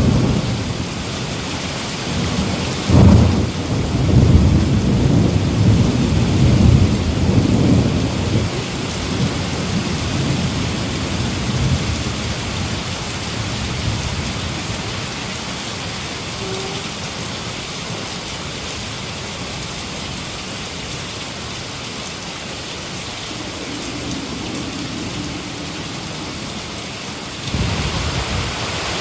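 Heavy rain falling steadily as a thunderstorm passes. A sharp thunderclap comes about three seconds in and rolls into a deep rumble that fades over the next several seconds. Near the end the rain's level jumps up suddenly.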